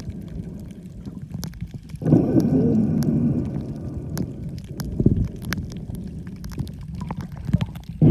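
Underwater sound picked up by a snorkeler's camera: a low churning rumble of moving water, scattered with many sharp little clicks. A louder gurgling surge comes about two seconds in, with another shorter one about five seconds in.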